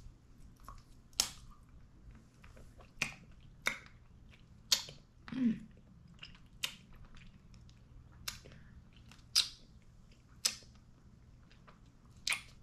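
Close-up mouth sounds of someone chewing a chewy fruit snack, Red Rippers: about a dozen irregular wet smacks and clicks, with a brief hum about five seconds in.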